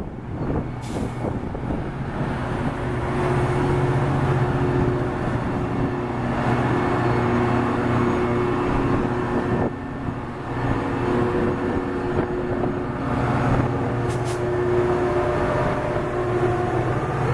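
Passing Metra commuter train: the steady drone of the EMD F40PHM-2 locomotive's 16-cylinder 645 diesel engine, growing louder as the locomotive comes alongside, over the rumble of bi-level coach wheels on the rails.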